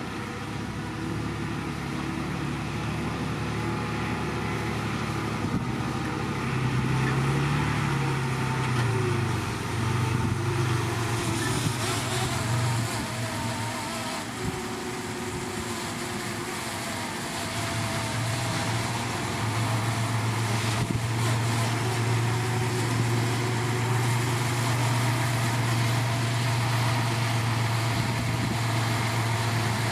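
Heavy diesel engine of earthmoving machinery running steadily. Its pitch rises and falls briefly about a quarter of the way in, then it runs louder and steady through the second half.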